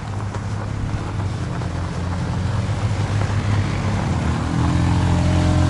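Quad bikes' engines running as they approach, getting steadily louder, with a change in engine pitch near the end.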